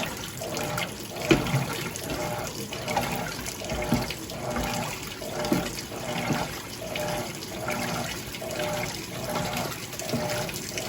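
Electrolux Turbo Limpeza top-load washing machine agitating a load: water sloshing in the tub while the motor hum swells and fades about one and a half times a second as the agitator reverses.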